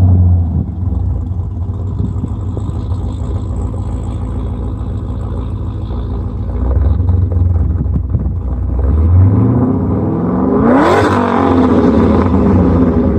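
Pontiac G8 GT's 6.0-litre V8, fitted with a Brian Tooley Racing stage 2 camshaft, long-tube headers and an aftermarket exhaust, idling steadily, then revved once sharply about ten seconds in and dropping back to idle.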